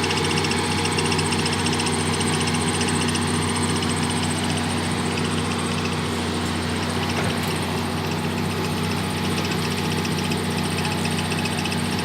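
Heavy diesel engine idling steadily, with a fine even clatter.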